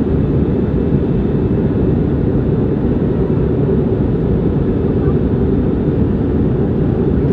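Airliner cabin noise in flight: the steady, loud low-pitched noise of the engines and airflow heard from inside the passenger cabin.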